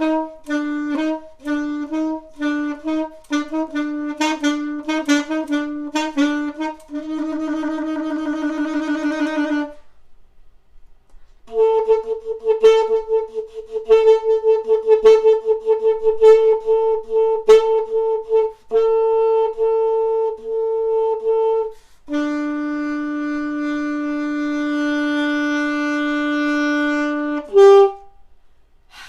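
A single saxophone playing a band part unaccompanied: quick repeated short notes, then a fast trill, a short pause, more repeated and held notes, and a long sustained low note closed by one brief final note.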